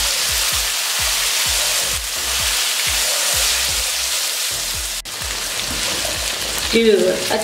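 Boiled chickpeas frying in hot oil in a wok, sizzling steadily as a spatula stirs them, over background music with a steady beat. A voice comes in near the end.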